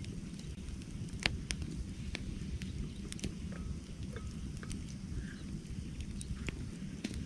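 Wood campfire crackling: irregular sharp pops and snaps over a low steady rumble, the loudest pop about a second in.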